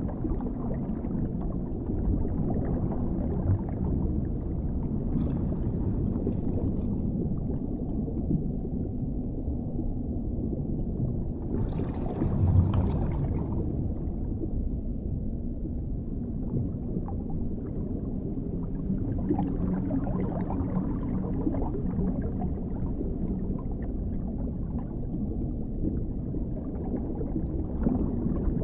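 Underwater ambience: a steady deep rumble with muffled gurgling, swelling brighter for a second or two about twelve seconds in.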